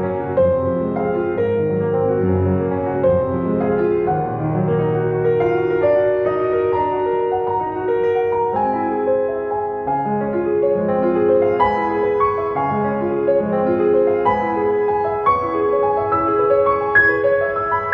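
Slow, gentle piano music: sustained notes and chords with a melody moving above them.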